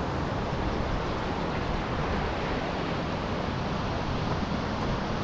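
Small waterfall and stream, water rushing and splashing steadily.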